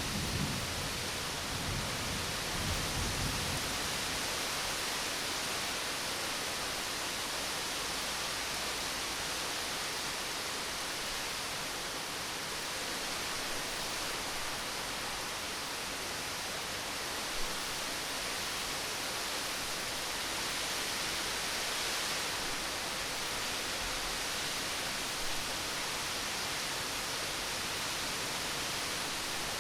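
Steady rain falling, an even hiss, with the last of a low thunder rumble dying away in the first few seconds.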